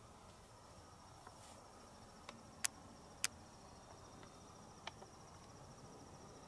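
Steady high-pitched insect trill of rapid even pulses, with a few sharp clicks around the middle, the two loudest about half a second apart.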